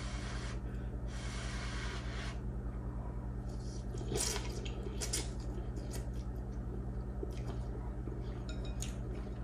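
Someone eating instant noodles: wet slurping and chewing with a few short clicks, over a steady low electrical hum.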